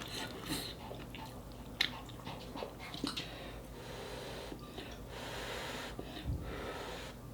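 Close-up eating sounds: chewing and breathing, with a few short clicks of utensils against the dish and a soft hiss lasting about two seconds past the middle.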